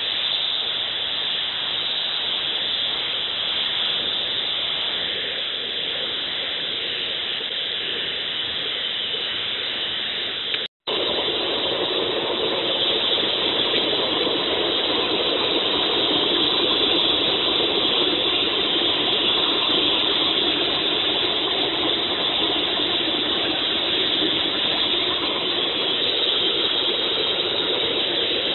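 Steady rushing air noise from a blower-fed metal-melting furnace. It breaks off for an instant about eleven seconds in, then carries on slightly louder.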